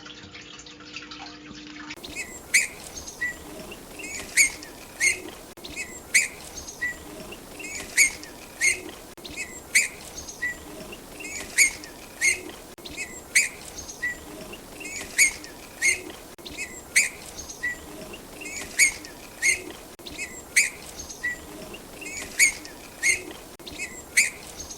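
A bird chirping over and over: short sharp chirps repeated roughly one to two times a second, starting about two seconds in after a brief low hum.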